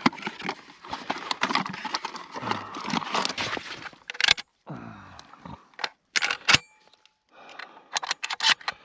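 Hunting gear being handled: rustling of clothing with many irregular sharp clicks and rattles, like shotgun shells and calls on a lanyard knocking together.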